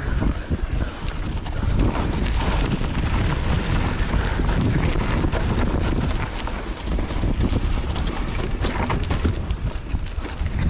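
Mountain bike riding over rough dirt singletrack: wind buffets the GoPro microphone over a steady rumble from the tyres and frame, with sharp rattles and clatters of the bike over bumps, most often near the end.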